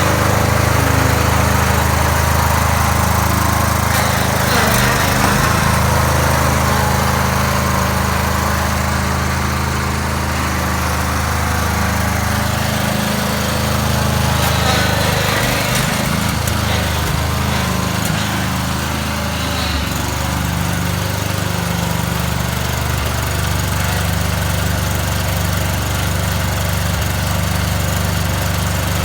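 Husqvarna 23 hp lawn tractor engine running steadily under throttle, with brief changes in its note about five seconds in and again between about fifteen and twenty seconds.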